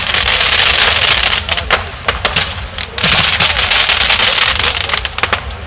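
Fireworks crackling overhead. There is a dense spell of crackle, then several separate sharp cracks, then a second long dense crackling spell that dies down near the end.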